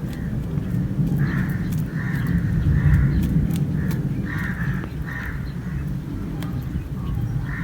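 Crows cawing repeatedly, about seven short harsh caws, over a steady low rumble.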